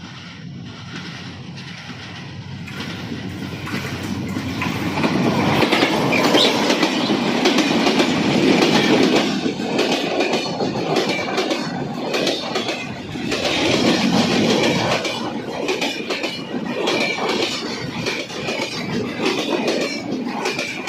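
Kopotakkho Express intercity train passing, wheels clacking over the rail joints. It grows louder over the first six seconds, then stays loud with an uneven rhythm of clacks.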